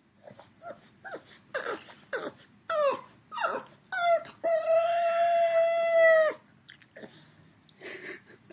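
Pug howling. A run of short whining calls that slide down in pitch and get longer builds into one long, steady howl of about two seconds that stops abruptly. Two faint whines follow near the end.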